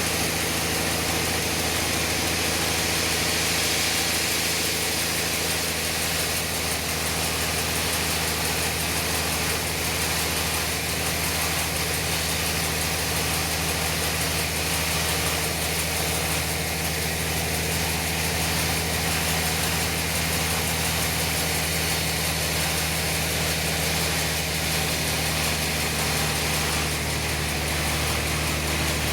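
Sawmill machinery running steadily: a low, even engine drone with a continuous hiss over it, no change in pace.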